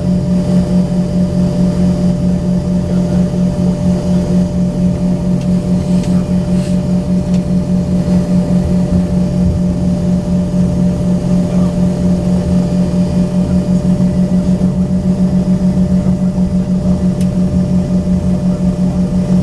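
Embraer ERJ-135 cabin with the rear-mounted Rolls-Royce AE 3007 turbofans idling while the jet holds for departure. A steady low drone with a fast, even pulsing throb.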